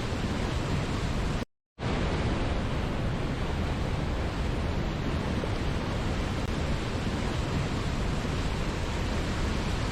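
Steady rushing of a waterfall, an even, dense water noise heaviest in the low end. It cuts out completely for a moment about a second and a half in, then resumes unchanged.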